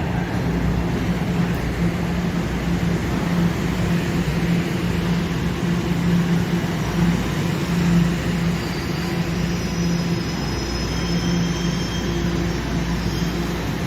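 TTC subway train running, a steady rumble with a constant hum. From about nine seconds in, a faint high-pitched wheel squeal joins it for a few seconds.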